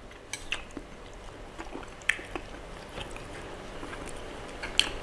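Scattered short clicks and light taps over a low steady background, with a few sharper ones: one about two seconds in and one near the end.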